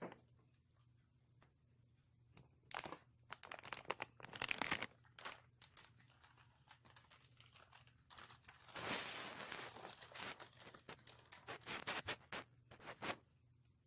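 Bursts of rustling and crinkling, like something being handled, about three seconds in, again around four to five seconds, and in a longer run from about nine to thirteen seconds.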